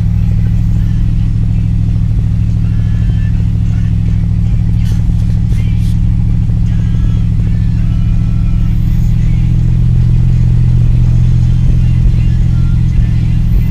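1984 Dodge Power Ram pickup's engine running steadily, a little louder in the later part. The engine keeps stalling, and the owner has not yet worked out whether fuel delivery or ignition is to blame.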